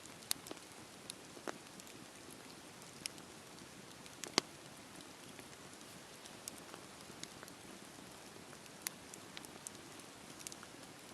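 Campfire burning with a soft steady hiss and irregular crackles and pops of burning wood, the loudest pop about four seconds in.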